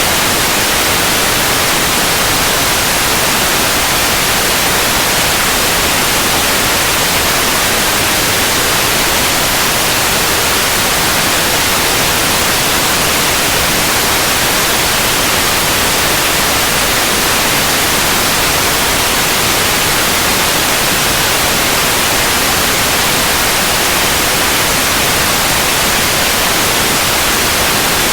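Steady, unbroken white noise, an even hiss across the whole range with no changes.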